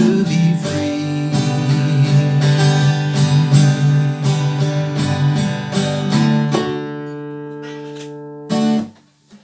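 Acoustic guitar picking the closing chords of the song. The last chord is left to ring and fade from about six and a half seconds in. A final short strum comes near eight and a half seconds, then the sound is cut off about nine seconds in.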